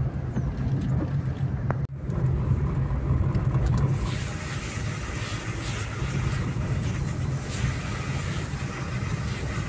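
Car engine running with road noise while driving, heard from inside the vehicle as a steady low hum; about four seconds in a steady hiss joins it.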